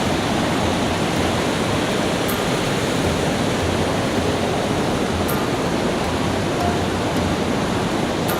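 Steady rushing of a fast-flowing river, an even, unbroken roar of water.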